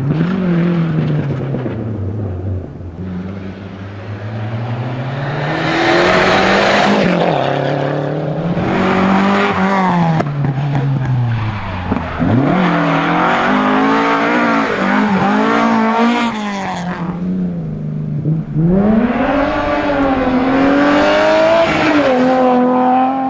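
Rally car engines revving hard at full throttle as the cars pass at speed, the pitch climbing through each gear and dropping at every shift, over several passes.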